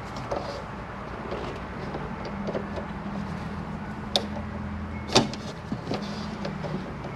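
Sharp clicks and small ticks of a flathead screwdriver prying at a stubborn plastic part on the car, the loudest click about five seconds in, over a steady low hum.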